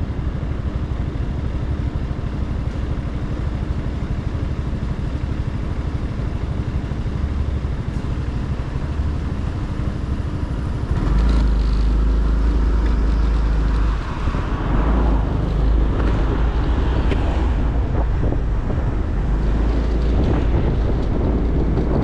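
Motorcycle engine running at low revs, heard from on the bike. About eleven seconds in it gets louder as the bike gets under way, with wind rushing over the microphone.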